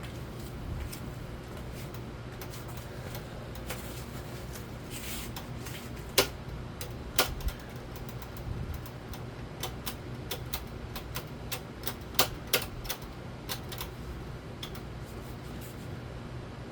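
1998 Nadair 42-inch ceiling fan running on medium speed with a steady low hum, over which come irregular sharp clicks and ticks, the loudest about six, seven and twelve seconds in.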